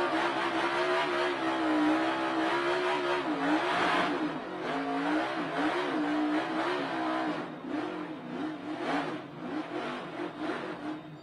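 NASCAR Cup car's V8 engine at racing speed, heard from inside the cockpit. Its pitch dips and climbs again as the driver lifts and gets back on the throttle through a corner. The sound grows weaker and more uneven in the last few seconds and cuts off abruptly at the end.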